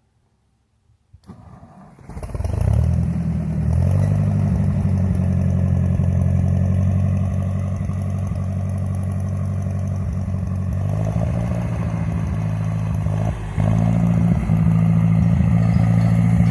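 Tractor engine starting about two seconds in, then running steadily; it dips briefly near the end and comes back a little louder.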